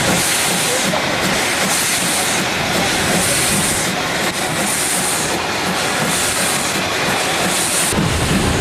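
CFR 231.065, a 4-6-2 Pacific steam locomotive, running with its train: a steady noisy rush with a high hissing swell about every second and a half. A low rumble comes in near the end.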